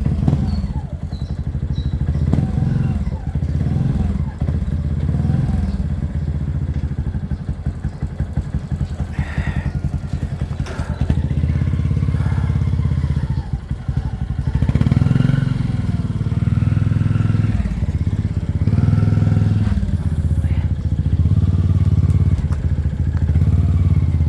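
Motorcycle engine running steadily at low revs, with faint voices over it.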